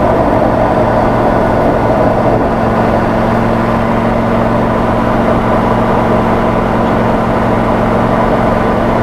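Audi R8 V10 engine of a recreated Porsche 917 heard from inside the cabin, running loud and steady at an even speed while the car cruises, with no revving or gear changes.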